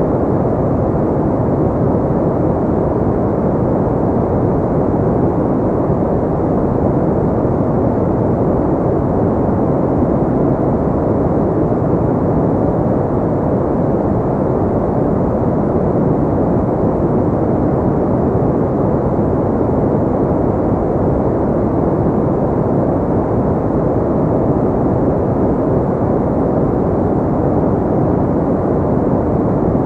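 Steady synthetic pink noise: an even, deep hiss, strongest in the low and middle range and muffled at the top, with no change in level or texture.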